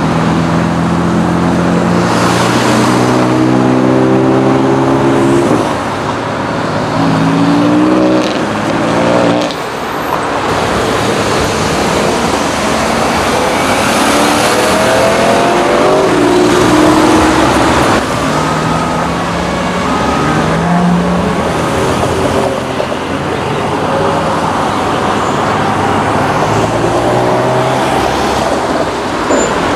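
BMW M cars accelerating away one after another, the engine note rising repeatedly as they rev through the gears: an F80 M3's twin-turbo straight-six, an E9x M3's V8, then an F10 M5's twin-turbo V8.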